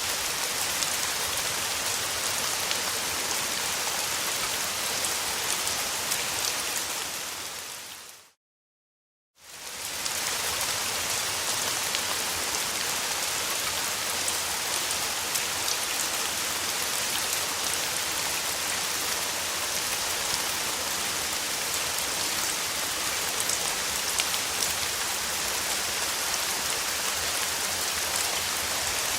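Steady summer rain falling on a surface, with fine drops ticking through the hiss. About eight seconds in, the rain fades out to a second of silence and then fades back in.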